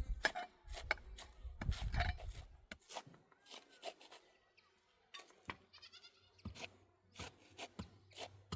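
Repeated sharp clicks and knocks of work at the tent, with a short wavering bleat, like a goat's or a sheep's, about six seconds in.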